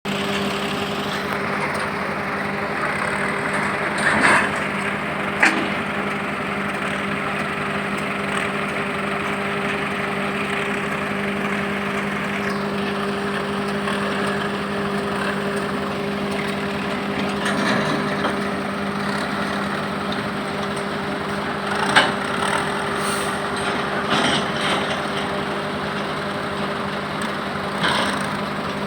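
A heavy vehicle's engine running at a steady speed, with a few short sharp knocks or clanks over it, the loudest about 22 seconds in.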